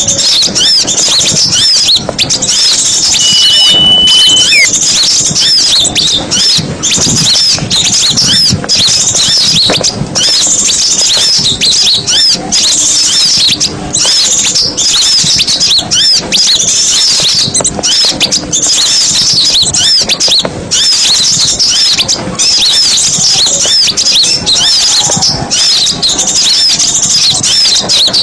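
Bird-lure recording of many small songbirds chirping and twittering at once, a dense, unbroken chatter of high-pitched calls. About three seconds in, a single long steady whistle cuts across it and ends with a quick drop in pitch.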